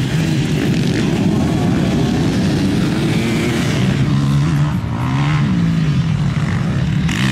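Several motocross motorcycle engines racing on a stubble-field track, revving up and dropping back as the riders accelerate and brake, with a clear rise and fall in pitch about five seconds in.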